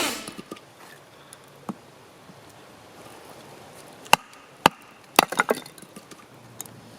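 Firewood being split by batoning: sharp wood-on-wood knocks. One light knock comes early, then a quick cluster of three or four loud strikes a little past the middle.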